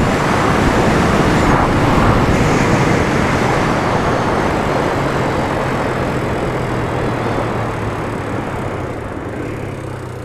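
Wind rush and road noise from riding a motorcycle at speed, with the engine's steady drone underneath, picked up by a helmet-mounted external microphone. The level gradually eases over the second half.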